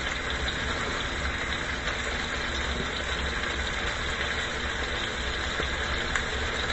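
Rib-eye steak frying in butter in a skillet, a steady sizzle.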